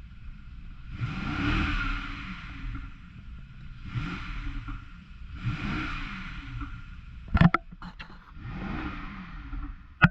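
2014 BMW 650i's 4.4-litre twin-turbo V8 running and revved up from idle about four times, each rev rising and falling back. A few sharp knocks about three-quarters of the way through and at the very end are the loudest sounds.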